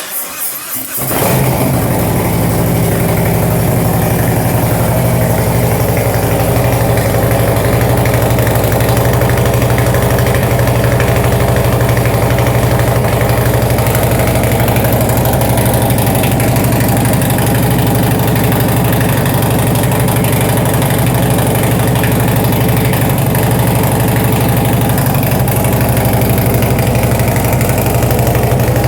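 Harley-Davidson Milwaukee-Eight V-twin with a Screamin' Eagle 226 cam, Bassani headers and Zombie slip-on exhaust, catalytic converter removed, starting up and catching within about a second, then idling loudly and steadily.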